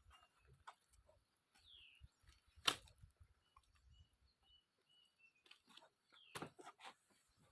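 Faint outdoor sound: sparse sharp knocks or snaps, the loudest about a third of the way in and another cluster near the end, with faint bird calls of short descending whistles and brief repeated high notes.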